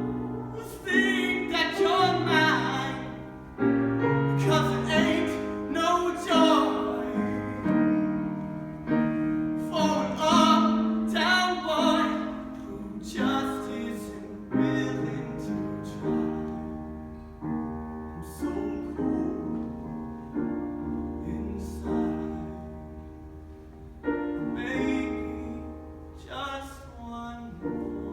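A solo voice singing a slow song to piano accompaniment, with struck chords throughout and a quieter passage about halfway through.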